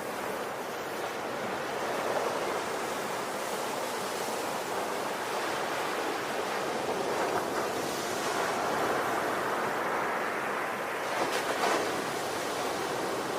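Ocean waves breaking and washing on the shore in a steady rush of surf that swells and eases, with a slightly louder wash near the end.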